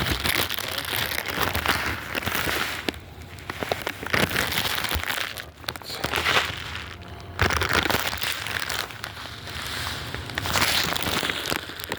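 Crinkling and rustling of a bag of millet seed being handled, in uneven surges with brief lulls.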